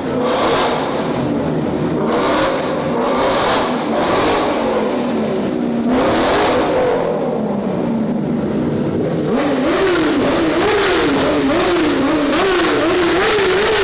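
A car engine being revved repeatedly, its pitch climbing and dropping with each rev. Near the end it breaks into a string of about six quick throttle blips.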